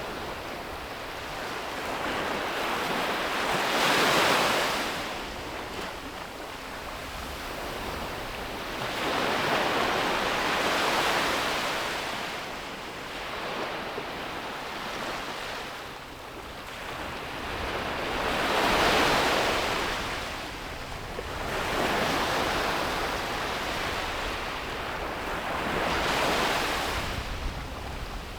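Sea waves breaking and washing up on a beach, in slow surges of rushing surf that build and fade every several seconds.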